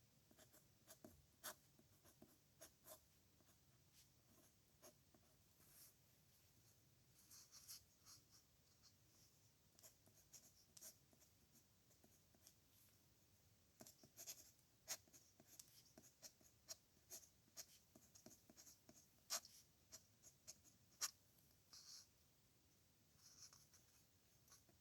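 Pen writing on paper: faint scratching strokes in clusters with short pauses, and now and then a sharp tick as the pen touches down.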